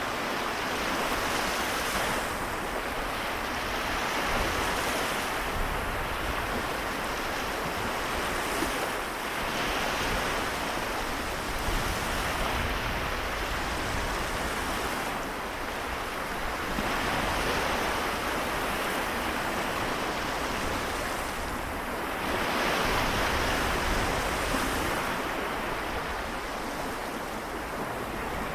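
Small waves of the Seto Inland Sea washing onto the shore, with no pitch to them, swelling and easing in gentle surges every few seconds.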